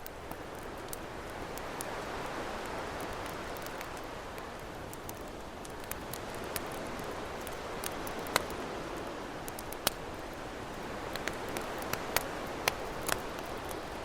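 Campfire crackling, with sharp pops scattered throughout and several louder ones in the second half, over the wash of ocean waves that swells and eases.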